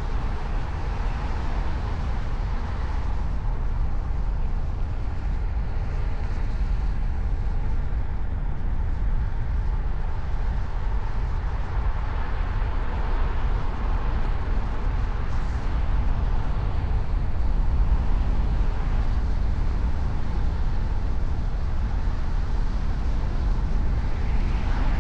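Steady road noise from a car driving: a continuous low rumble of tyres and engine with no sudden events.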